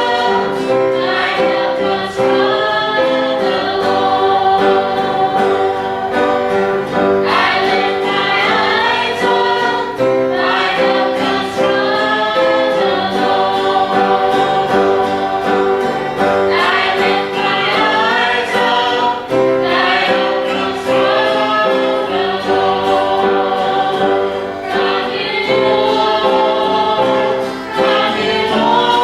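Gospel song sung by a group of singers with backup vocals and piano accompaniment, sung in phrases over held chords.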